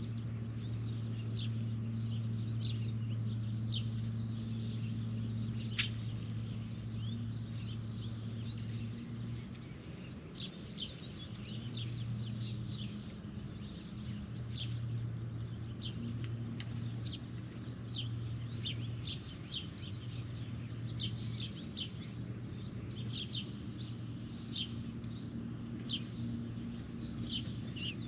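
Birds chirping and calling, many short calls one after another, over a steady low hum.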